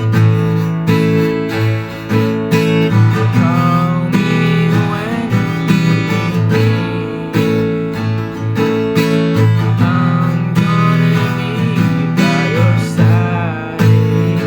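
Music: a song led by a strummed acoustic guitar, with steady strokes.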